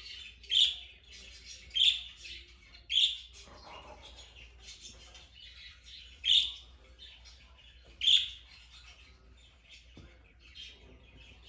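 Pet lovebirds chirping: loud, short high calls, three about a second apart, then two more further apart, with softer chirps between them.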